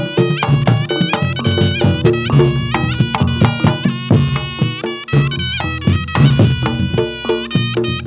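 Reog Ponorogo gamelan accompaniment: a slompret (double-reed shawm) plays a wavering, bending melody over quick drum strokes and pulsing low gong notes.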